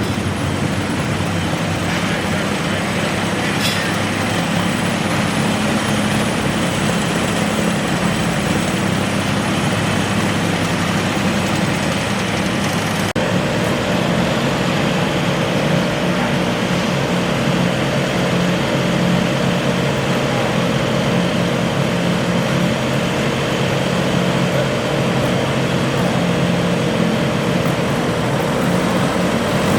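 Modified garden tractor engine running loudly and steadily. There is a brief dropout about 13 seconds in, after which a higher steady tone joins the engine note.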